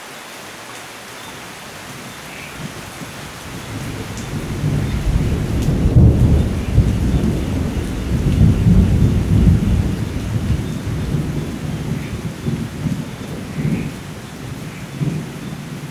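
Steady rain with a long, rolling peal of thunder that builds a few seconds in, is loudest in the middle and slowly fades.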